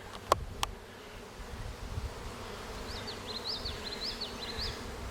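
A large swarm of honeybees buzzing steadily. Two sharp clicks come in the first second, and a faint high chirping runs through the middle.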